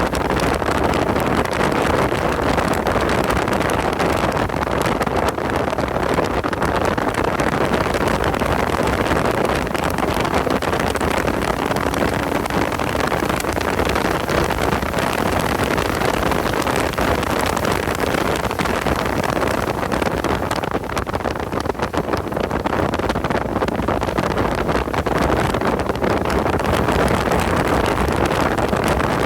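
Car engine running under load at speed, mixed with heavy wind noise on the microphone. The loudness holds steady apart from a brief dip about three-quarters of the way through.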